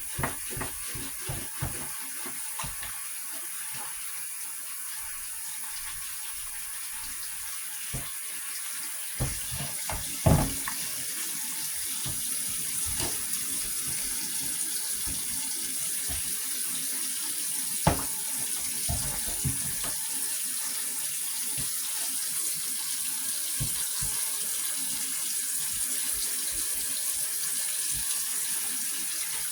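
Water running steadily from a tap into a sink, with scattered short knocks, the loudest about ten seconds in.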